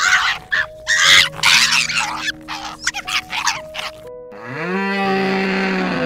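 Animal calls over soft background music: a run of harsh, rasping calls for about four seconds, then one long call that rises in pitch and holds steady for about a second and a half, ending near the end.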